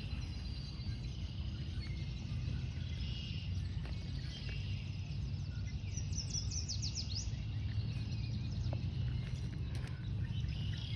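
Small birds chirping over a steady low rumble of outdoor background noise, with a quick run of high, falling notes about six seconds in.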